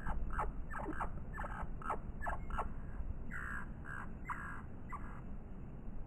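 A bird calling: a quick run of short, falling chirps, about two to three a second, then four longer calls that stop shortly before the end. A low, steady rumble runs underneath.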